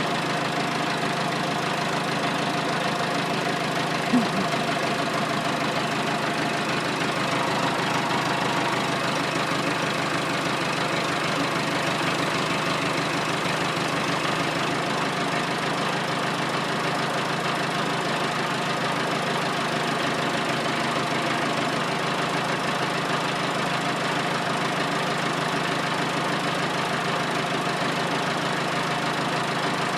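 Massey Ferguson 50HX backhoe loader's diesel engine running steadily, with one brief knock about four seconds in.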